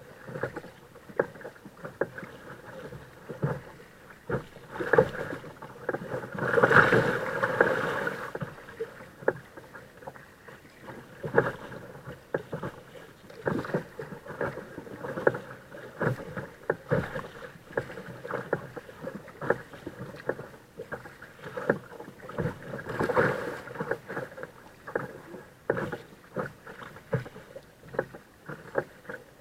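Kayak being paddled: water splashing and dripping from the paddle strokes, with many small knocks. There are louder spells of rushing water about seven seconds in and again about twenty-three seconds in.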